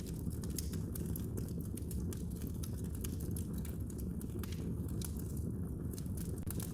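Wood fire burning in a fireplace, with irregular crackles and pops over a steady low rumble.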